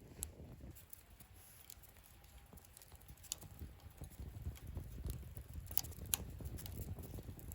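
Wood fire burning in a fire stand: a low rumble of flames with scattered sharp crackles and pops, a few louder snaps in the second half.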